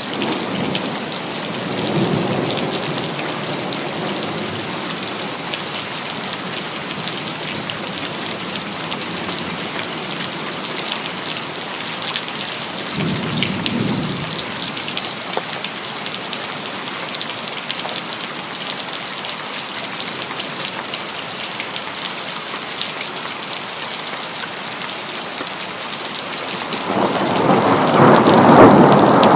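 Steady rain with thunder: low rumbles about two seconds in and again around the middle, then a louder roll of thunder building near the end.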